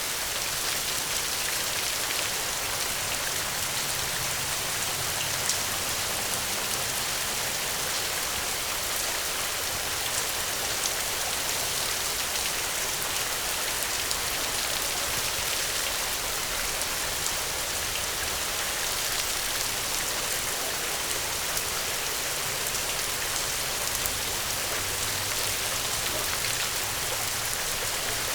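Steady, heavy rain: a dense, even hiss with scattered drop ticks.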